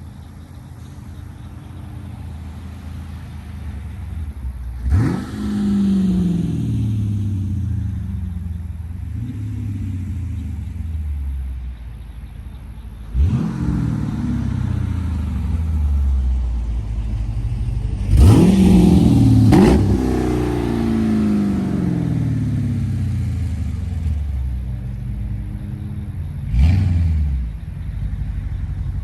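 2017 Dodge Durango R/T's 5.7-litre Hemi V8 idling through a modified exhaust with the rear mufflers deleted and an X-pipe added, revved sharply four times, the third a quick double rev, each time falling back to idle.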